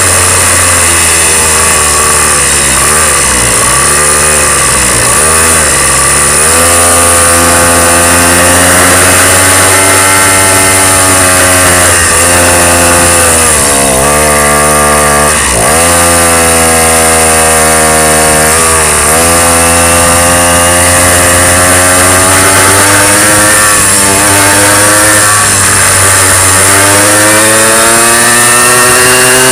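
Small motorcycle engine running under way, its buzzing pitch climbing and falling with the throttle, with a few sharp drops in the middle where the throttle is let off before it revs up again.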